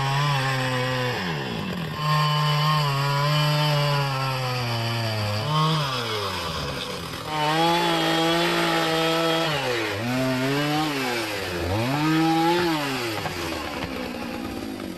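Small two-stroke chainsaw engine running at high revs, the revs dropping sharply and climbing back again about four times, then running lower and rougher near the end.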